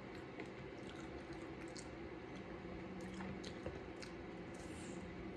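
Faint wet eating sounds of someone chewing sauce-covered food: squishy chewing and lip smacks with scattered soft clicks.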